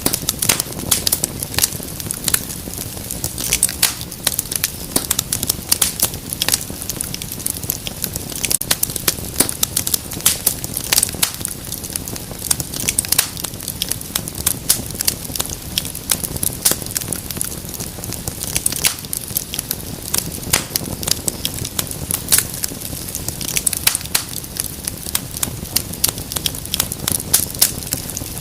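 Wood fire in a fireplace crackling steadily: dense, irregular pops and snaps over a low, steady rumble of the flames.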